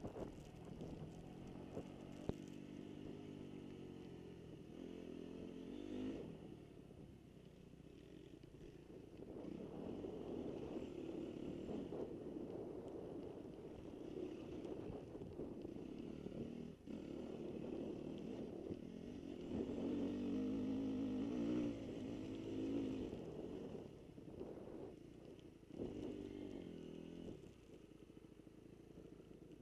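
Dirt bike engine running hard, its pitch climbing and falling over and over as the throttle is opened and shut.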